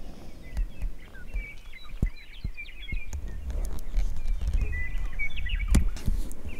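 Small birds chirping in quick, high, twittering notes. From about three seconds in, a low rumble on the microphone dominates, with a few sharp knocks of camera handling.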